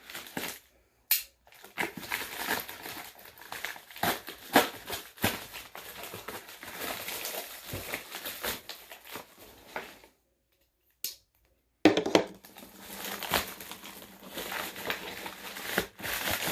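Packaging being torn open and crumpled by hand: crinkling, rustling and sharp tearing with many small clicks. It stops for nearly two seconds partway through, then starts again.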